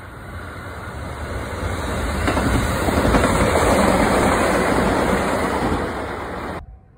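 Electric commuter train on the JR San'in Main Line passing close by, its wheel-and-rail noise swelling to a peak in the middle and then cutting off abruptly near the end.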